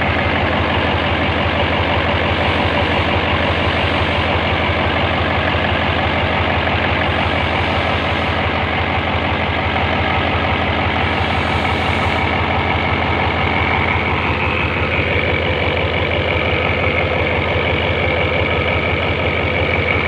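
Hino F21 diesel engine with a BD injection pump running steadily and very loud, with a dense, even clatter of firing pulses. A faint steady whine comes in about halfway through.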